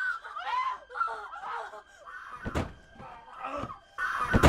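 Raised voices or cries, then two heavy thuds about two seconds apart, the second one the loudest.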